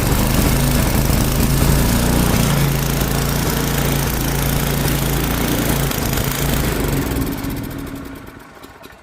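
An old snowblower's small gas engine running steadily on a little choke, just after catching on its electric starter. Near the end it shuts down and winds to a stop.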